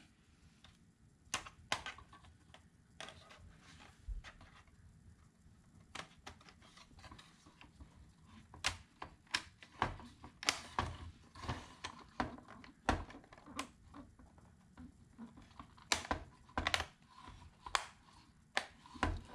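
Plastic parts of an instrument cluster being pressed and snapped into place by hand: a run of irregular small clicks and taps, coming more often in the second half.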